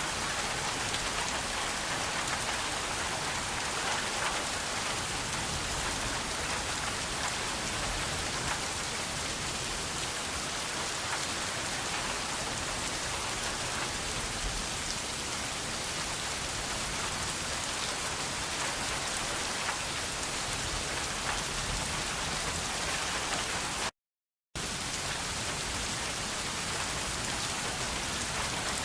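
Steady rain falling, an even hiss of many drops that holds constant, broken once late on by about half a second of sudden silence.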